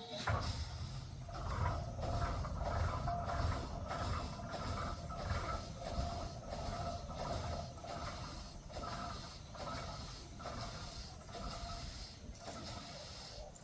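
Steam locomotive working, its exhaust beats coming in a steady, even rhythm and slowly fading.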